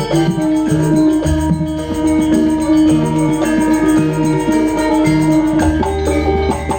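Music played loudly through a sound system during a sound check. It has a stepping bass line, sustained melody tones and a steady percussion beat.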